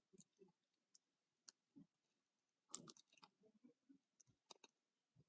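Faint scattered clicks and light taps of a Hot Wheels toy car and plastic car-wash set being handled, with a small cluster of louder clicks about three seconds in.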